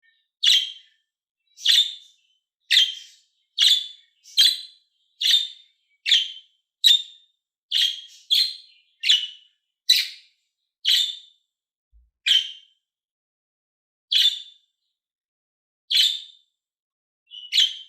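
A small parrot chirping: a string of short, sharp, high calls, about one a second at first and spacing out to one every two seconds or so in the second half.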